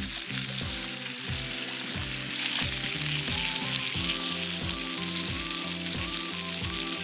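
Gyoza sizzling as they fry in a pan, with the sizzle growing louder about two seconds in. Background music with a steady beat plays underneath.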